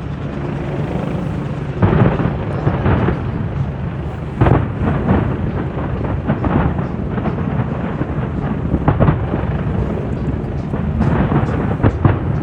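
Fireworks display: repeated booms and crackling bangs over a continuous low rumble, with the sharpest bursts about two seconds in, midway and near the end.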